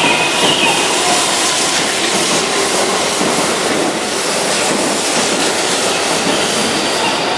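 Keihan limited-express electric trainset 3001 running along the platform track, a steady rolling noise of wheels on rail that holds at one level throughout.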